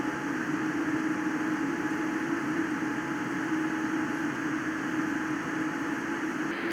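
Steady cabin noise inside a Boeing 787-9 airliner on the ground before takeoff: an even hiss with a steady low drone from the engines and cabin air system.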